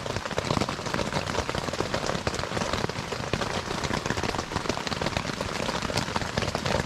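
Heavy rain falling on a shelter overhead: a steady, dense patter of drops during a thunderstorm.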